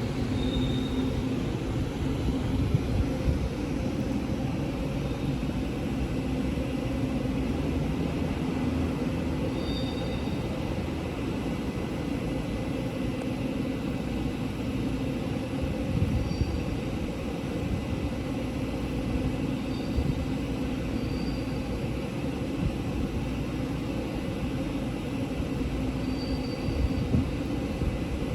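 Taiwan Railway train running with a steady rumble and a low hum, with occasional thumps and a few brief faint high-pitched chirps.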